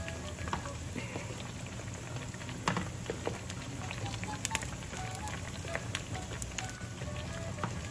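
Ripe plantain slices frying gently in shallow oil, a steady sizzle with scattered pops and crackles.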